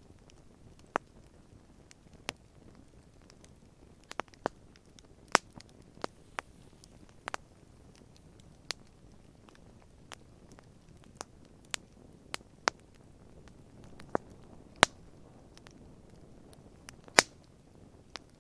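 Wood campfire crackling, with sharp irregular pops and snaps over a low steady rustle of the flames.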